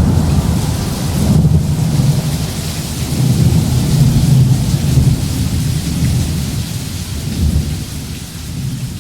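Rolling thunder over steady rain: a deep rumble that swells and eases several times under the even hiss of the rain, slowly fading toward the end.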